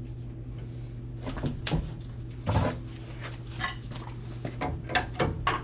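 Clicks and knocks of tools and metal parts being handled, irregular and several in a row from about a second in, over a steady low hum.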